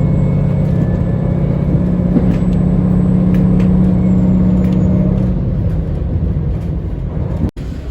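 Diesel engine of a KiHa 40 railcar running under power, a loud steady drone whose strong low engine note drops away about five seconds in as the power comes off. The sound cuts out for an instant near the end.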